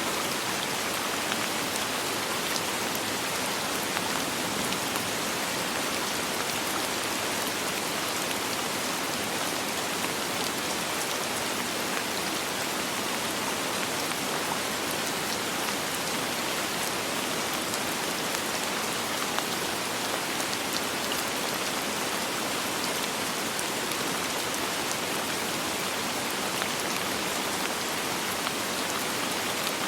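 Steady rain falling, a dense even hiss of drops with fine patter and no thunder.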